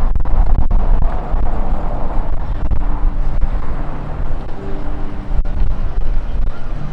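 Wind gusting over the microphone, a loud, uneven low rumble that rises and falls, over faint street ambience with brief distant tones.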